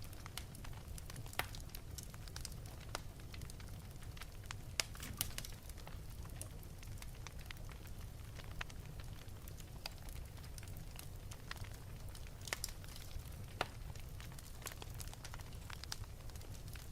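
Wood fire burning in an open fireplace, crackling with irregular sharp pops over a steady low rumble.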